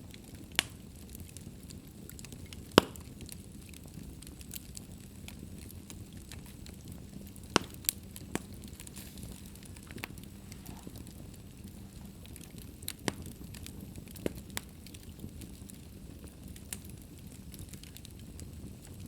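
Wood fire burning in an open fireplace: a steady low rumble of the flames with scattered sharp crackles and pops, the loudest about three seconds in and small clusters near the middle.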